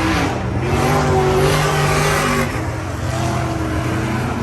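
Drag-racing muscle cars' engines running loud, with the pitch stepping up just after the start and dropping about two and a half seconds in.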